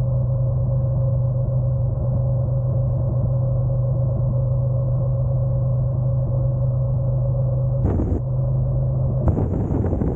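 Honda NC750X parallel-twin engine running steadily at a constant low note, with little wind noise, as when the motorcycle sits idling at a stop; about 9 seconds in, rushing wind and road noise return as the bike gets moving.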